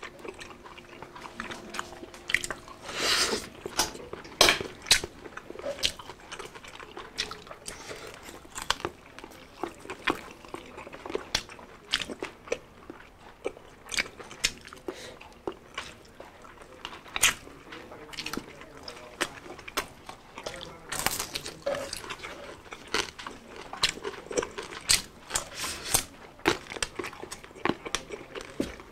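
Mouth sounds of eating crispy deep-fried pork belly (bagnet) by hand: loud irregular crunches of the crackling skin mixed with wet chewing.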